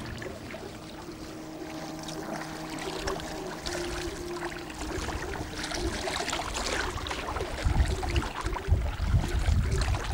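Water splashing and lapping around a canoe, with small scattered clicks. A faint steady hum runs through the first half, and wind buffets the microphone in gusts from about three-quarters of the way in.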